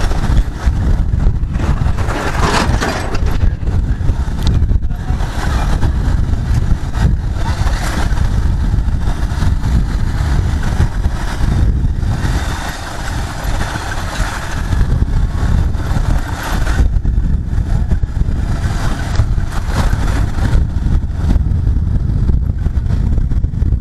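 Bajaj Pulsar 150 single-cylinder motorcycle being ridden along a road, its engine and road noise under a heavy, steady wind rumble on the microphone.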